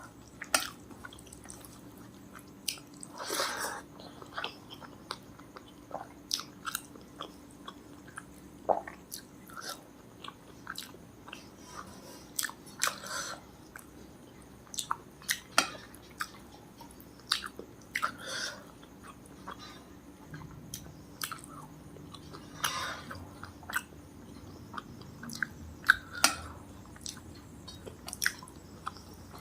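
Close-miked chewing and mouth sounds of a person eating: irregular short clicks and smacks throughout, with a few louder ones toward the end.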